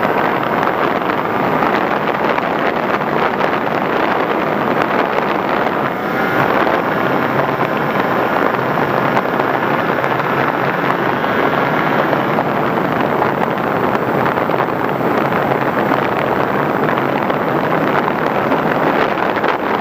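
Engine or motor of a radio-controlled model running in flight, heard from an onboard camera, with heavy wind on the microphone. Its pitch shifts between about six and twelve seconds in.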